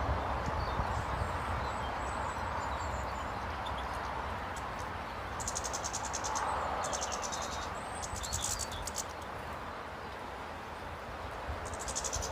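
Small birds calling at a bird table: several short, rapid, high-pitched trills, bunched in the second half, over a steady outdoor background hiss and rumble.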